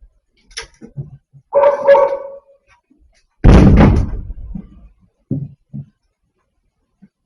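A short pitched cry or squeal, then a loud slam about three and a half seconds in that dies away over a second, followed by two softer knocks.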